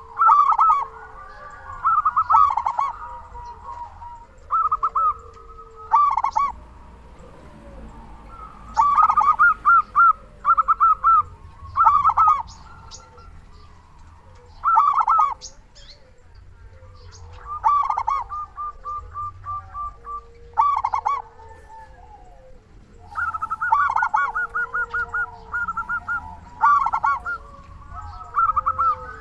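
Zebra dove (perkutut) cooing: short phrases of rapid, pulsed coos, repeated every few seconds, with softer, lower calls underneath.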